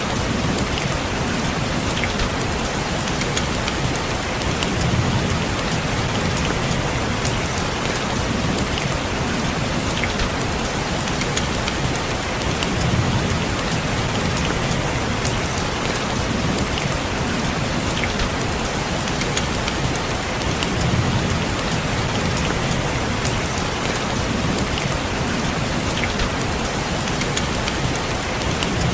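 Steady rain falling, with scattered sharp drop ticks on a hard surface such as window glass and a low rumble that swells and fades about every eight seconds.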